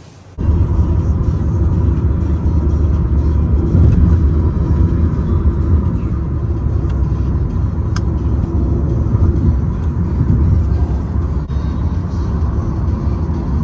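Steady low rumble of a car on the move, road and engine noise, starting abruptly about half a second in.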